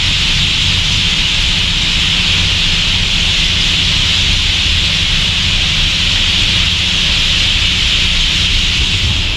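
Massed twittering of a large flock of swallows gathering to roost, so dense that it blurs into one steady high hiss, over a low steady rumble.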